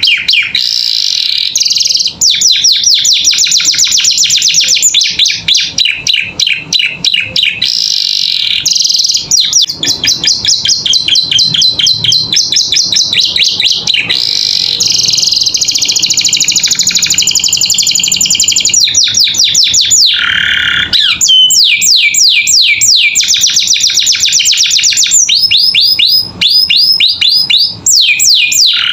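Domestic canary singing a long, continuous song of fast, high trills: runs of rapidly repeated notes that switch from one phrase to the next every few seconds, with a lower, sweeping phrase about two-thirds of the way through.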